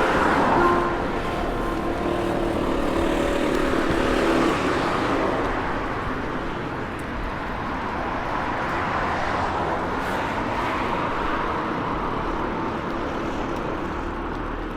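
Road traffic: cars passing by, a steady wash of engine and tyre noise that swells and fades as vehicles go past.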